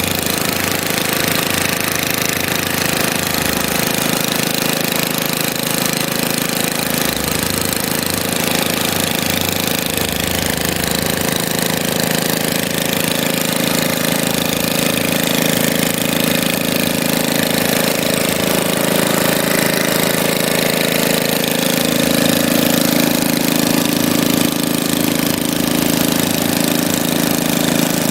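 An engine running steadily, getting a little louder about two-thirds of the way through.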